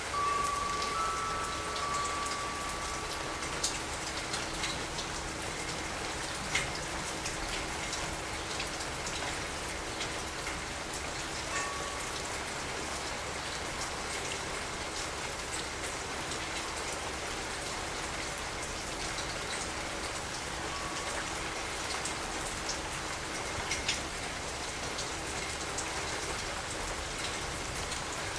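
Steady rain falling and pattering on surfaces, with individual drops ticking sharply close by now and then.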